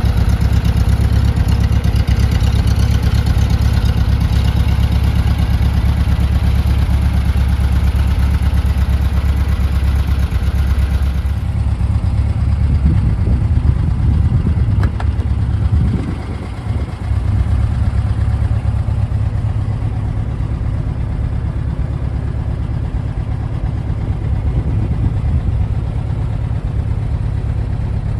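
Porsche 356A's air-cooled flat-four engine running steadily. About a third of the way in the sound changes and the engine speed wavers up and down for a few seconds before it settles again.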